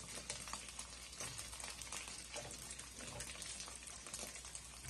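Pork belly pieces frying in a little oil over medium-low heat, a faint, steady sizzle with small crackles as the fat renders out.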